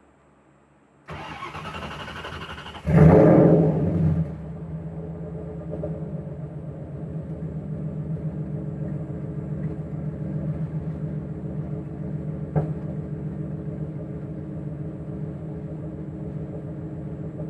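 A Ford Coyote 5.0 V8 is cranked over about a second in and catches at about three seconds with a loud rev flare. The revs fall back over about a second as the engine computer's idle control brings the speed down to its target. It then idles steadily.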